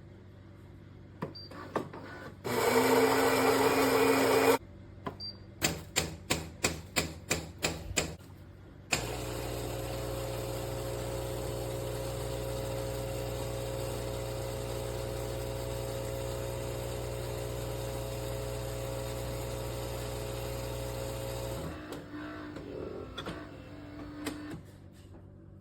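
Philips fully automatic espresso machine running a brew cycle: its built-in grinder whirs loudly for about two seconds, then about nine quick pulses follow, then the pump runs with a steady hum for about twelve seconds before stopping, followed by a few softer mechanical sounds.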